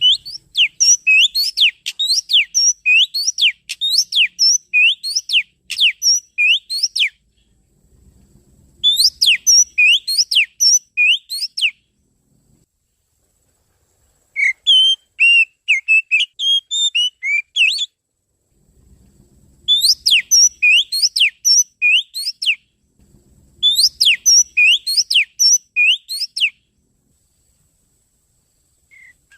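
Oriental magpie-robin (kacer) singing: loud phrases of quick, sharp whistled notes, each note sweeping up in pitch, given in bursts of a few seconds with short pauses between. One burst, about halfway through, is a more varied warbling phrase.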